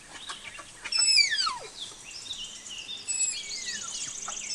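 Tapir giving high-pitched whistling squeals: a series of calls that slide steeply down in pitch, the longest and loudest about a second in.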